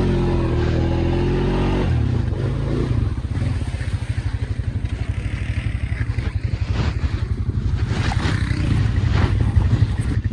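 ATV engine running steadily under throttle, then about two seconds in dropping to a fast, even, throbbing idle.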